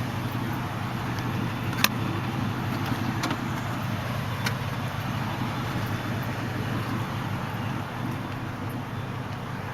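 Steady low vehicle rumble, with a few light clicks about two, three and four and a half seconds in.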